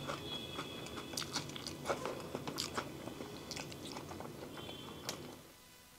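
Someone chewing a mouthful of peeled hard-boiled egg: soft, irregular wet mouth clicks, going quiet near the end.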